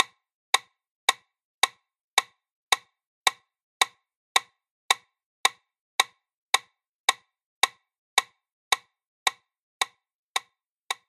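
Metronome-like clicks, sharp and perfectly even at about 110 a minute, the pace for chest compressions in CPR.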